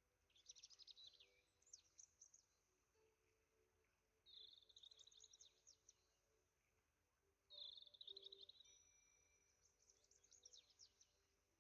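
Faint songbird singing: short, rapid, high twittering phrases repeated every few seconds.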